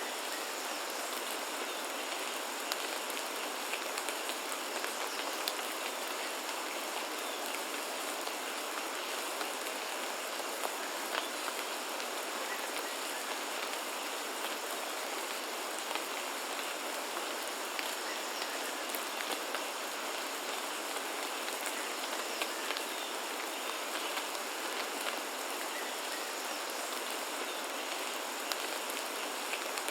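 Steady rain falling on foliage, a constant hiss with scattered individual drops ticking throughout.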